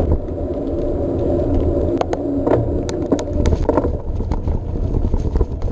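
Trek Marlin 7 mountain bike rolling along a path, with the low rumble of wind and tyres on the camera microphone and several sharp clicks and rattles a couple of seconds in.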